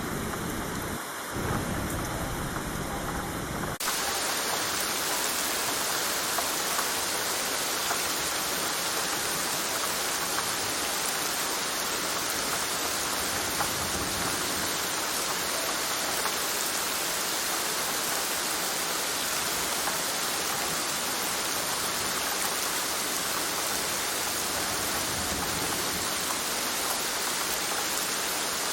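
Rain falling, with a low rumble under it for the first few seconds. About four seconds in, it switches abruptly to a steady, brighter hiss of harder rain.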